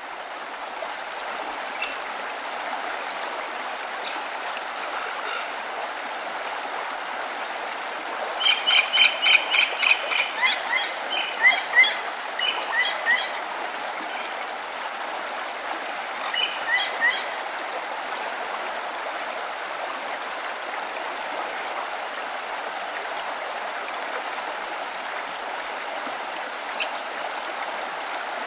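Running water, like a stream, flowing steadily, with a songbird singing. About eight seconds in it gives a long phrase of rapid repeated high notes, and near the middle a shorter phrase.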